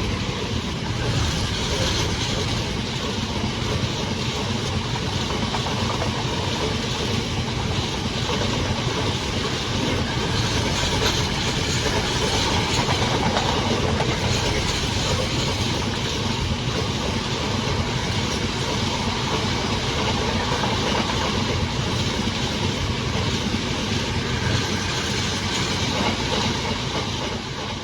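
A train passing close by: the steady noise of its wheels running on the rails, keeping an even level throughout.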